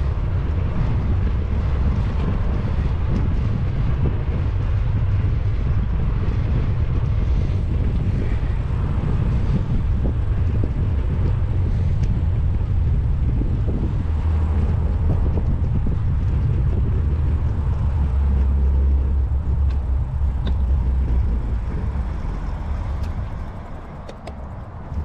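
Wind rumbling steadily over a GoPro's microphone while riding a bicycle, easing off a couple of seconds before the end.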